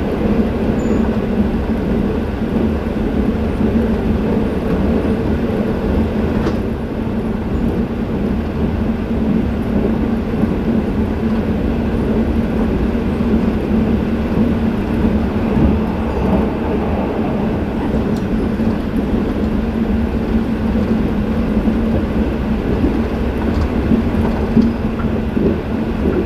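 Sleeper train running at speed, heard from inside a passenger coach: a steady running rumble with a constant low hum under it.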